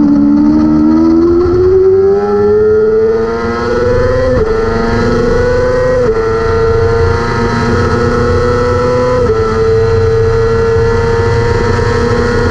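600 cc superbike-class race motorcycle engine at full throttle: the note dips at the start, climbs steadily, then breaks briefly three times as the rider shifts up and holds high.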